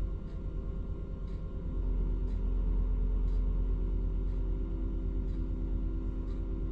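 Truck crane's diesel engine running, picking up revs about two seconds in and holding there as a steady, deeper rumble. Faint ticks come about once a second throughout.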